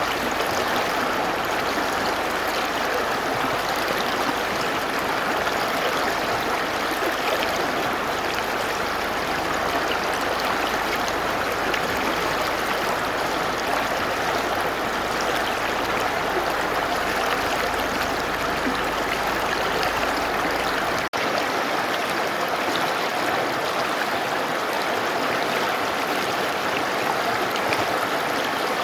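A mountain river's water rushing steadily: an even, unbroken noise with a momentary dip about three-quarters of the way through.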